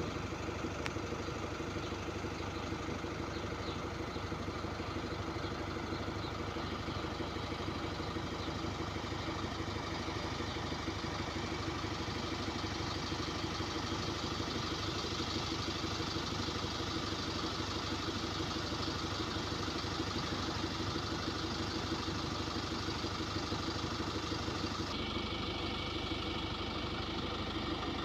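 Cummins diesel engine of a Zhongtong LCK6150D bus idling steadily, with a slight change in tone near the end.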